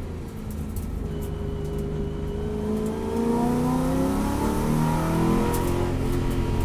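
Ford Boss 302 race car's V8 engine under acceleration, its pitch climbing steadily and growing louder about three seconds in.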